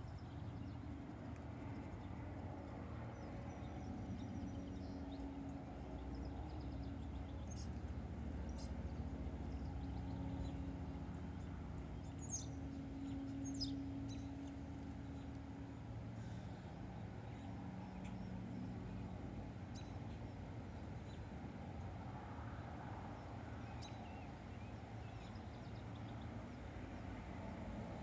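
Small birds chirping in scattered short calls, the sharpest two about eight seconds in and two more a few seconds later, over a steady low background rumble.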